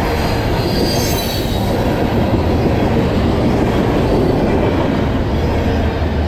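A train rolling past at close range, its wheels making a loud, steady rumble on the rails, with a brief high wheel squeal about a second in.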